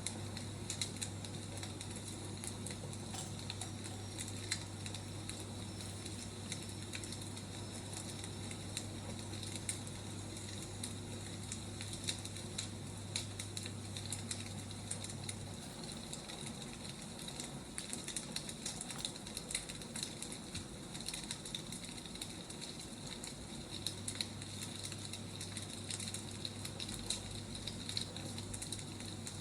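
Wood fire crackling, with frequent small pops and snaps over a steady soft hiss. A low steady hum drops out about halfway through and comes back near the end.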